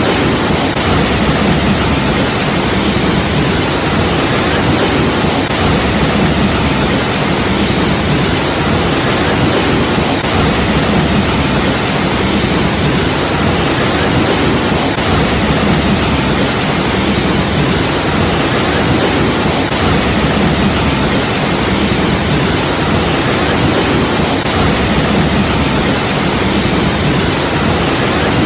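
A waterfall's water falling and splashing in a steady, unbroken rush.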